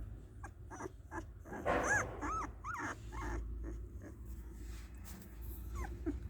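Caravan hound puppy whimpering: a few short, high whines, the loudest a quick run of three or four rising-and-falling whines about two seconds in.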